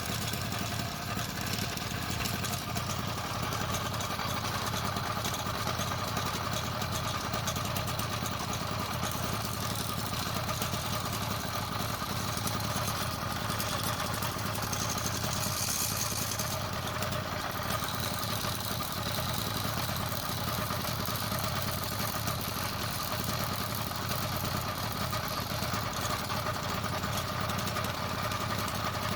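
Motorized bicycle's small kit engine running steadily, driving a wobbling, noisy drive chain; the cause is a chain with about six bad links catching on the pinion gear. A brief hiss rises over it about halfway through.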